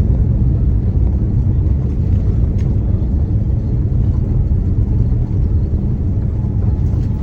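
Steady low rumble of a Boeing 787-9 rolling on the runway after touchdown, heard from inside the cabin.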